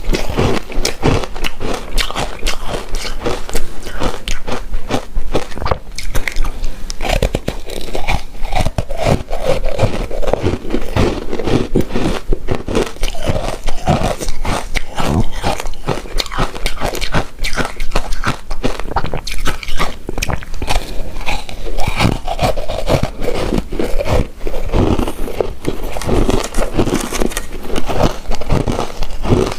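Close-miked mouth sounds of eating a chewy coconut-coated rice cake: continuous wet smacking and chewing with frequent sharp clicks.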